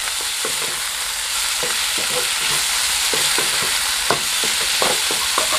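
Chopped tomatoes, onion and ginger-garlic sizzling in hot oil in a kadai, with a spatula stirring and scraping them round the pan in short, irregular strokes.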